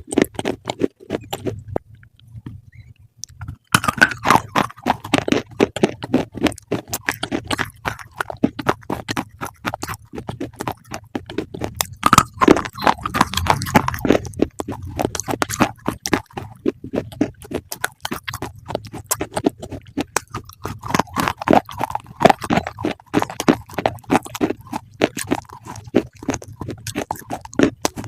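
Crunchy food being chewed: rapid crisp crunches that pause briefly about two seconds in, then go on steadily.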